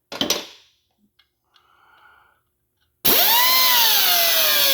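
A brief knock, then a power drill starts about three seconds in and drives a tapered threaded repair pin into a cracked cast iron engine block. Its pitch sags as it loads up, typical of the pin tightening until it twists off. The drill is released near the end and winds down with a falling whine.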